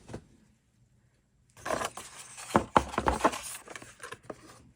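Rustling and crinkling from handling paper and craft supplies, with many small sharp clicks, starting about a second and a half in and lasting about two seconds.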